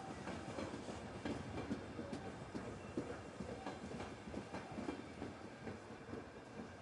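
Intermodal freight train's wagons rolling past at steady speed, the wheels clattering over the rails in a continuous stream of irregular knocks.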